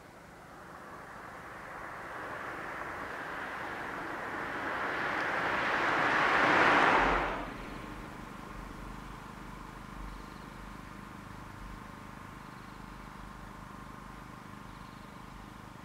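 A Joso Line diesel railcar approaching along the track, growing steadily louder for about seven seconds until the sound cuts off abruptly. After that, wind rumbles on the microphone.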